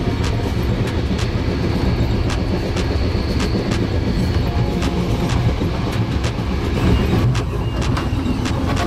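Passenger train running, heard from inside the coach: a steady low rumble of wheels on rails with irregular short clicks and clacks from the track.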